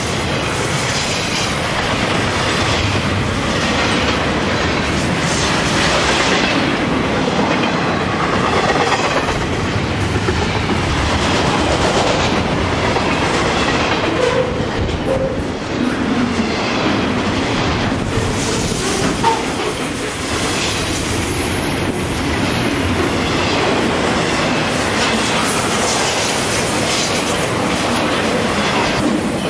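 Florida East Coast intermodal freight cars rolling past at speed: a steady loud rumble and clatter of steel wheels on the rails, with a thin high wheel squeal near the start and again a little past the middle.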